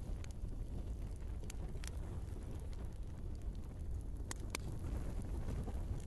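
Wood fire burning in a fireplace: a low steady rumble of flames with a few sharp crackles and pops from the logs, the loudest two about four seconds in.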